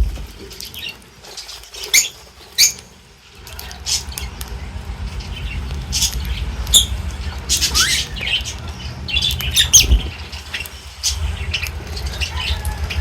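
Birds squawking and chirping in many short, sharp calls, scattered unevenly, over a steady low rumble.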